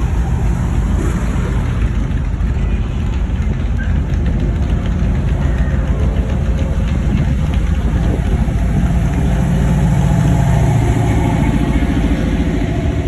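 Car engines running with a steady low rumble, one of them swelling louder about two-thirds of the way through and then easing off.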